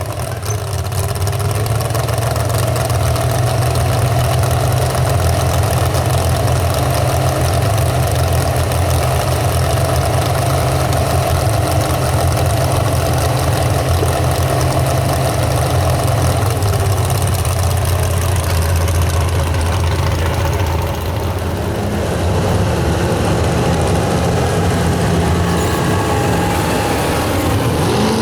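A super stock 4x4 pulling truck's engine running loud and steady under load for a long stretch, easing slightly about three quarters of the way through, then revving up with a rising pitch at the very end.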